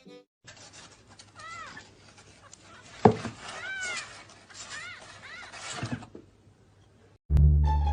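A domestic cat meowing several short, rising-then-falling meows, with one sharp knock about three seconds in. Music starts again near the end.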